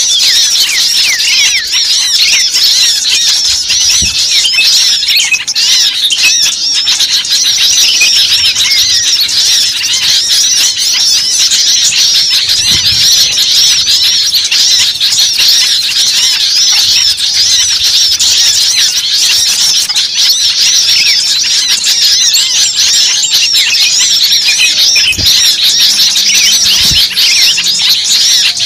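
Bird-lure recording: a dense, noisy chorus of many small birds chirping and squeaking rapidly and without pause, high-pitched. A commotion of small-bird calls of the kind played to draw small birds in.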